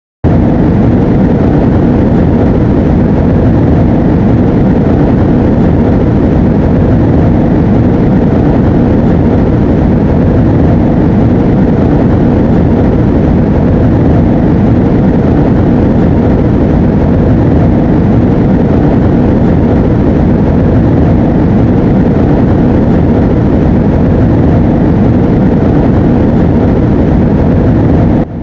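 Airliner engines and airflow making a loud, steady roar, heard from inside the cabin.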